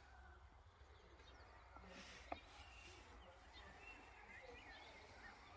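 Near silence with faint bird chirps and one sharp click a little over two seconds in.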